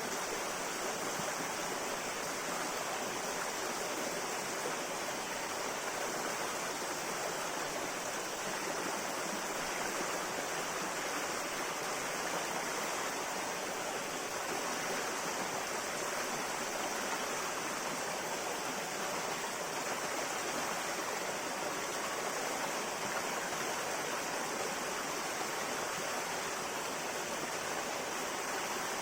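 A river flowing steadily over rocks, an even rushing and babbling of water with no change.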